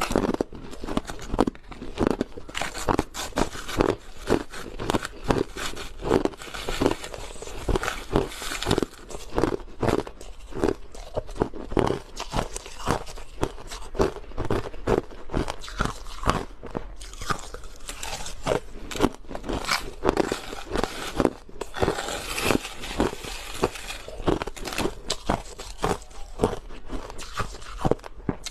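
Crushed ice being bitten and chewed: a steady run of crisp, crackly crunches, several a second, without a break.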